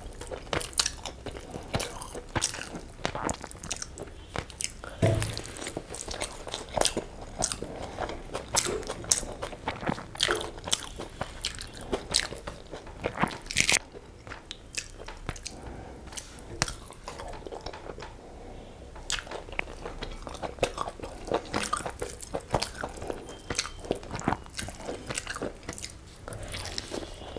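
Close-miked eating of egg biryani and chicken curry by hand: steady chewing and biting with many short, sharp wet mouth clicks and crunches.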